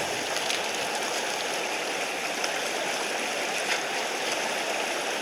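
Steady, even rush of a mountain stream, with a few faint ticks over it.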